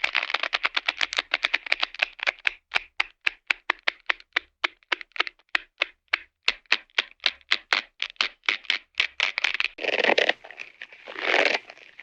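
Cartoon sound effect: a fast run of sharp clicks that gradually slows, followed by two short rasping noises near the end.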